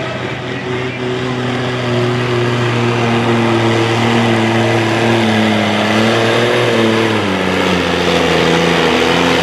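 Sport-class pulling truck's engine running hard under load, its pitch holding steady, rising slightly, then dropping sharply about seven seconds in.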